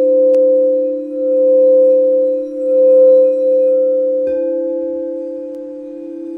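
Crystal quartz singing bowls ringing with two steady, sustained tones that swell and fade in slow waves. A light tick sounds about a third of a second in, and about four seconds in another bowl or bell is struck, adding higher ringing tones over the drone.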